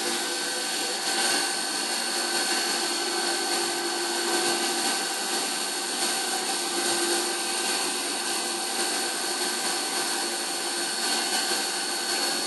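CNC milling machine running a chamfer-tool pass on a part: a steady hiss with constant high whining tones from the spindle.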